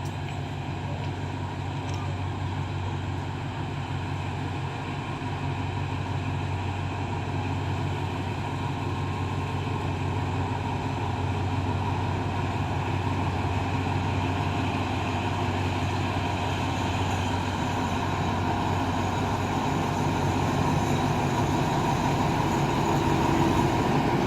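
Diesel train engine running with a steady low drone, growing gradually louder as the train approaches.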